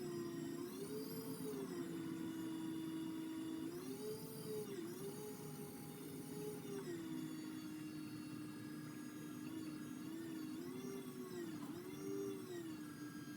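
A motor running with a steady whine whose pitch rises and falls back again several times, as if the load on it keeps changing.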